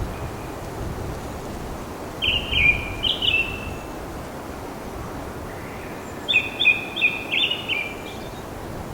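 A bird singing two short bursts of quick repeated chirping notes, about two seconds in and again about six seconds in, over a steady outdoor hiss.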